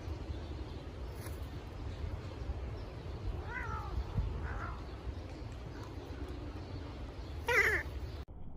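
A cat meowing three times, the last meow near the end the loudest, over a steady low rumble.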